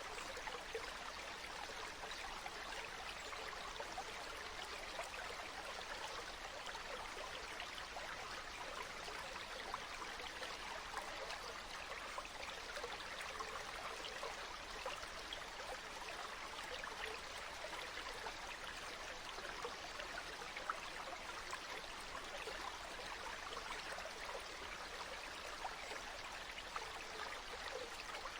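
Water flowing steadily in a stream, an even rushing and trickling.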